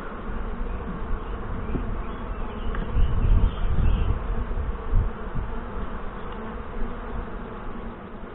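Saskatraz honey bees buzzing steadily around an open hive as its frames are inspected, a calm colony. A few low thumps come about three to five seconds in.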